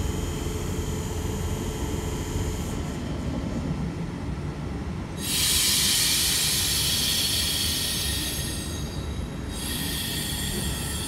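Electric passenger train standing at a platform with a steady low rumble and hum. About five seconds in, a sudden loud hiss starts and runs for about three seconds, drops away briefly, then returns near the end.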